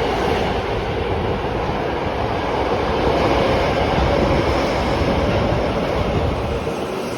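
Osaka Metro 21 series subway train pulling out of the station, running steadily with wheel and motor noise. A faint motor tone rises slightly partway through, and the sound eases a little near the end.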